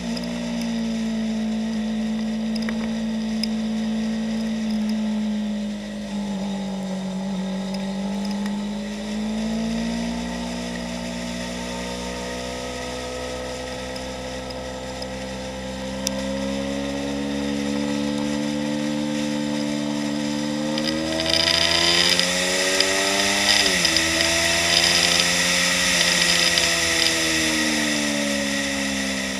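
2015 Yamaha YZF-R3's 321 cc parallel-twin engine running hard at high revs, its pitch slowly rising and falling with the throttle. In the last third a heavy wind rush joins it, and the pitch climbs then drops sharply once.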